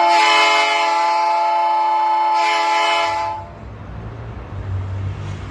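A diesel freight locomotive's air horn sounds one long chord-like blast lasting about three seconds. Once it cuts off, the low rumble of the locomotive's diesel engine carries on.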